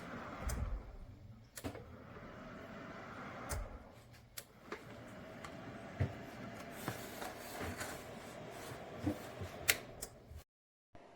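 Scattered sharp clicks and knocks, a dozen or so at irregular intervals, over a faint steady hiss and hum. The sound drops out completely for about half a second near the end.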